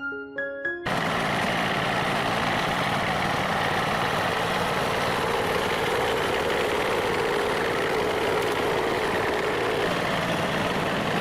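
A few closing piano notes, then an engine starts running steadily at idle with an even, unchanging noise.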